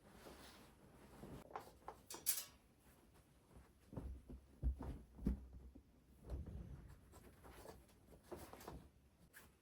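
Quiet handling of household objects in a small room: scattered soft knocks and rustles, a short crinkly rustle about two seconds in, and two sharper thumps about halfway through.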